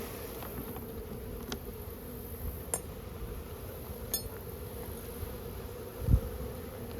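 Honeybees buzzing steadily, a mass of bees disturbed during a colony removal, with a few faint clicks and a brief low thump about six seconds in.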